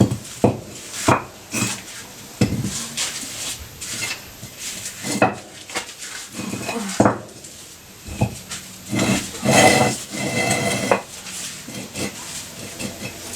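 Irregular metallic clanks and knocks of tools and parts being handled and set down, with a longer, louder stretch of clattering about nine to eleven seconds in.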